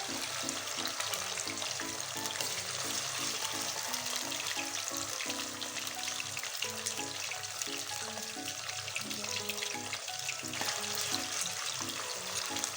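Chicken diamonds deep-frying in hot oil on high flame: a steady, dense crackling sizzle. Background music plays with a repeating low melody.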